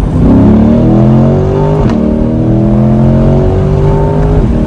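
C8 Corvette's V8 accelerating hard, heard from inside the cabin. The revs climb, a quick upshift about two seconds in drops them, and they climb again to another shift near the end.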